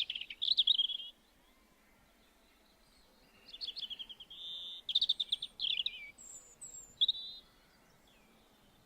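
Small songbird singing: a trilled phrase that ends about a second in, then after a pause a longer phrase of fast trills, a held whistle and a few very high thin notes.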